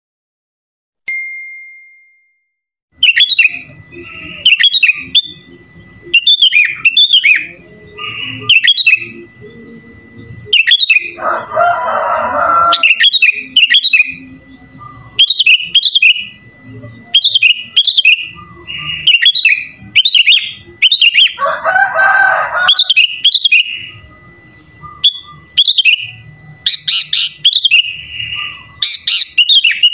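Sooty-headed bulbul (kutilang) singing in a gacor, non-stop run of short bubbly whistled phrases about once a second, its song filled with borrowed phrases (isian). Two longer harsh chattering stretches come about a third and two thirds of the way in. A thin steady high tone runs underneath.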